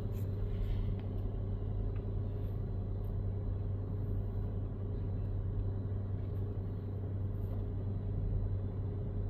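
Steady low rumble with a constant hum, heard from inside a car's cabin in a car wash tunnel.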